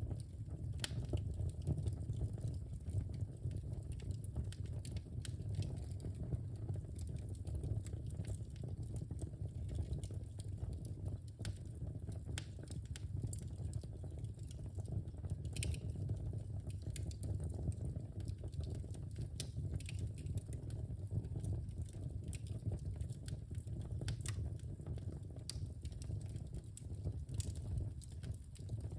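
Wood fire in a fireplace crackling, with scattered, irregular sharp pops and snaps over a steady low rumble.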